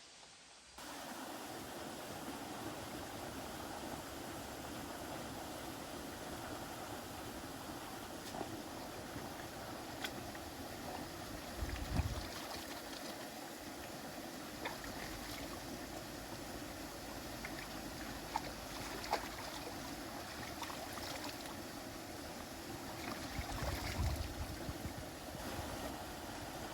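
Steady rushing water noise with scattered small ticks and drips. Brief low thumps come about 12 and 24 seconds in.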